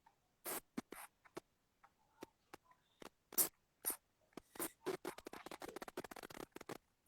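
Scratching and tapping close to the microphone: a scatter of short scratches and clicks, thickening into a quick run from about four and a half to six and a half seconds in.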